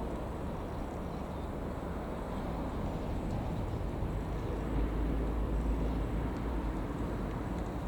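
Irish Rail 29000 class diesel multiple unit heard as a steady low rumble, growing a little louder about halfway through.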